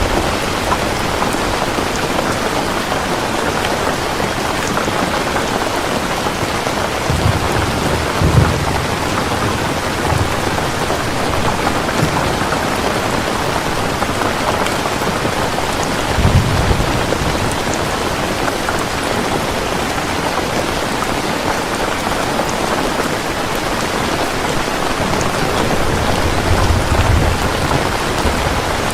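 Heavy rain falling steadily in a dense, even hiss, with a few short low rumbles: about 7 to 8 seconds in, around 16 seconds, and again about 26 seconds in.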